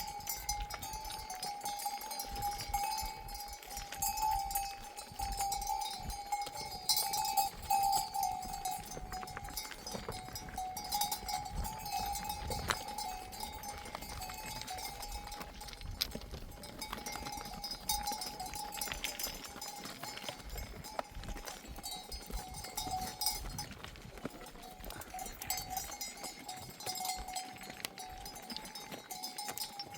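Bells on a grazing flock of sheep clinking and ringing on and off without a break, several bells overlapping.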